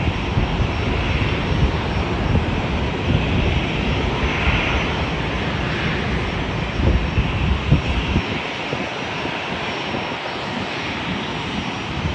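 Jet airliner's engines, a continuous broad rumble with a hiss on top, holding fairly steady throughout.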